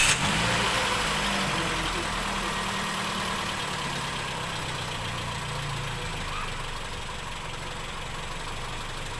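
2008 Toyota Vios four-cylinder engine idling just after being started, its revs settling so the sound grows gradually quieter.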